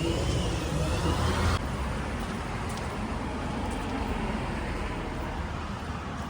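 Road traffic noise: a steady rumble and hiss of passing vehicles, louder for about the first second and a half, then cutting down suddenly to a lower, even hum.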